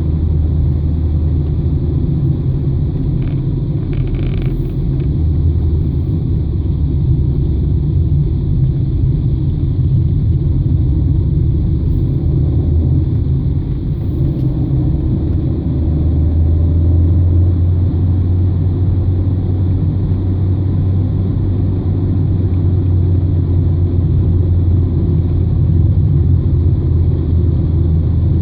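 Car engine and road noise heard from inside the cabin: a steady low drone that grows a little louder a bit past halfway through.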